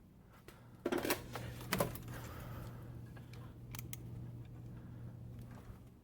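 Several sharp clicks and taps, a cluster about a second in and two more near four seconds, from the buttons of a Casablanca W32 wall control being pressed to switch on the fan's light, over a steady low hum.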